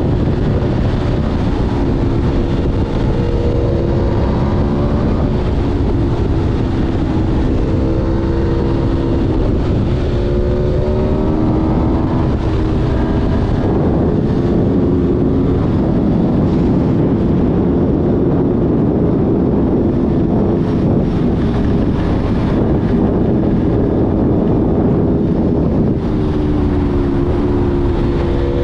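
Aprilia Tuono V4 1100's V4 engine pulling hard at speed, its pitch climbing and dropping back again and again as it shifts up through the gears, under heavy wind rush on the microphone.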